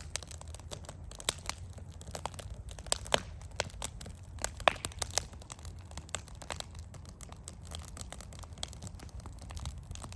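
Campfire burning, crackling with irregular sharp snaps and pops over a steady low rumble.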